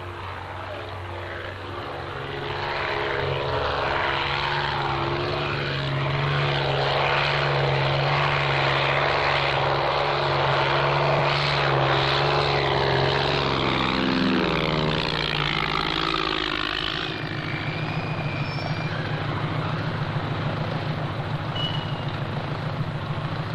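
Propeller-driven crop-spraying airplane flying low over the fields. Its engine drone grows louder over the first few seconds, then drops in pitch as the plane passes, about 14 to 17 seconds in, and goes on as a lower, quieter drone.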